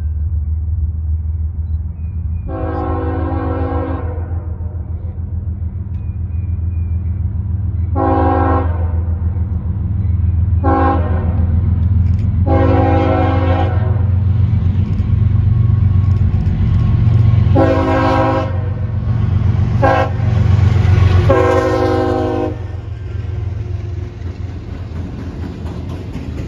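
Freight train passing close by. Its diesel locomotive sounds a multi-note air horn in about seven blasts, some long and some short, over a steady low engine rumble that peaks as the locomotive goes by. Near the end the tank cars roll past on the rails.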